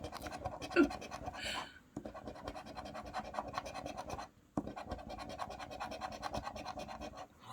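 Coin scratching off the latex panels of a paper scratchcard: rapid, repeated rasping strokes, in a few runs separated by short pauses.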